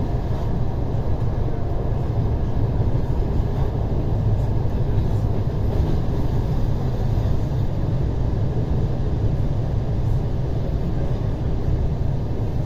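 Steady rumble inside the carriage of an ER9T electric multiple unit on the rails.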